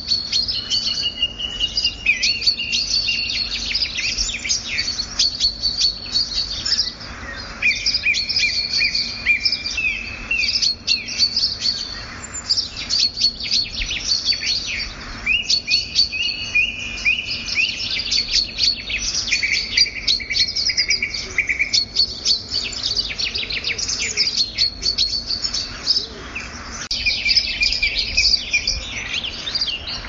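Several birds chirping and singing without pause: quick high trills overlapping with lower whistled phrases.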